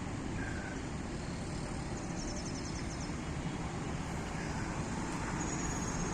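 A bird giving two high, rapid trills of about ten notes each over a steady low rumble of background noise.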